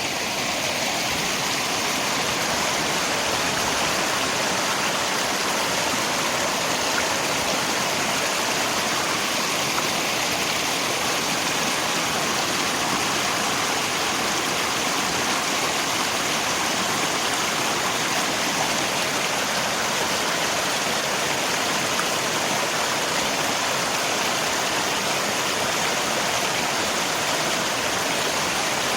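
River water rushing steadily, mixed with rain falling.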